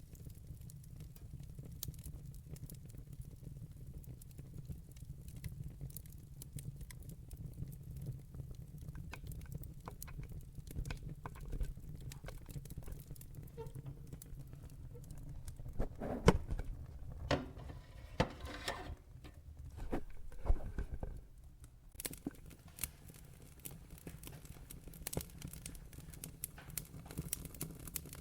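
Wood fire crackling in a fireplace: scattered sharp pops and snaps over a low, steady rumble of burning, with a cluster of louder pops a little past halfway.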